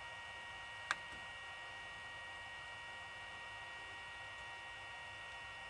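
Steady low electrical hum with several faint steady high tones, broken by a single sharp click about a second in.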